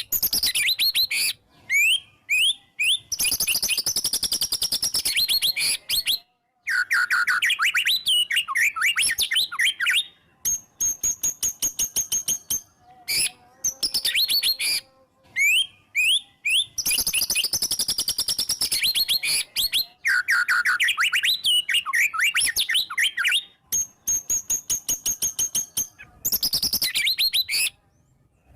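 White-rumped shama (murai batu) in full, energetic song: bursts of loud, sharp whistled notes and very fast trills, broken by short pauses between phrases.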